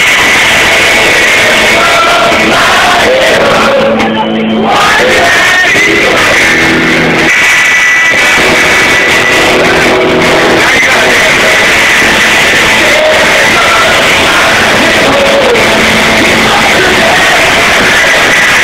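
Live rock band playing with a singer, recorded from among the crowd. The sound is loud and distorted, overloading the recording microphone, with a brief drop about four seconds in.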